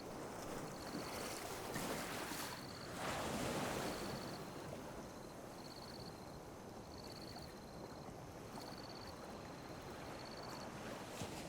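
Small sea waves lapping and washing onto a beach, with one wave surging in about two to four seconds in. A high, even chirp repeats about once a second behind the water.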